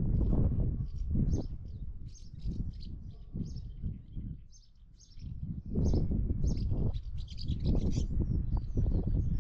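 Small birds chirping in quick, repeated high calls, over gusts of wind buffeting the microphone as a low rumble that eases briefly around four to five seconds in.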